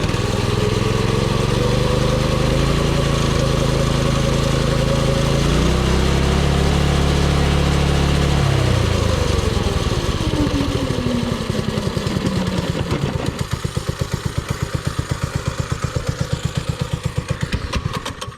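Mini bike's small gasoline engine running under throttle, then its pitch falls as it slows to a rough, pulsing idle and cuts out at the very end. This is the stalling problem the riders put down to a throttle that isn't fully tightened and slips into the off position.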